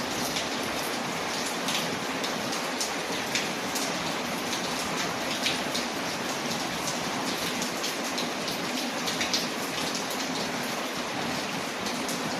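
Steady rain pattering on a window, with frequent small crackles and pops from a wood fire.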